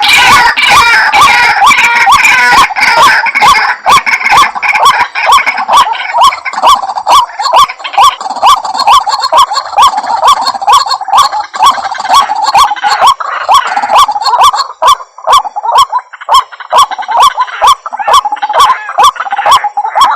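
White-breasted waterhen calling: a loud, unbroken run of repeated 'ruak' notes, about two to three a second, busier with higher overlapping notes in the first few seconds. It is the looped call used as a lure (pikat) to draw the birds in.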